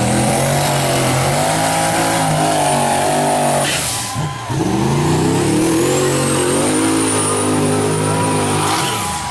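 Mud truck's engine at high revs, with a high whine that rises and then holds. It drops away about four seconds in, then a second high-revving run builds and holds until near the end.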